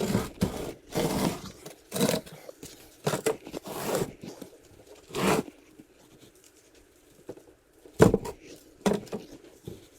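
Mould forms being scraped and pulled off a freshly cast perlite hibachi body, in several rough bursts of scraping and tearing, followed by two sharp knocks near the end.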